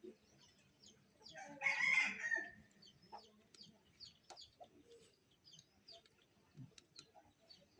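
A rooster crowing once, about a second and a half in, followed by faint short high chirps.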